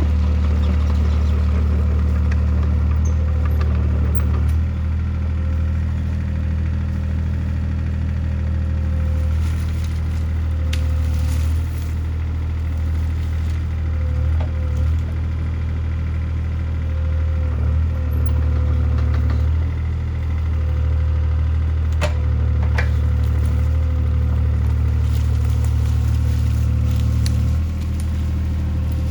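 CAT 303C CR mini excavator's diesel engine running steadily, its note shifting every several seconds as the machine works. There is a sharp crack a little past two-thirds of the way through.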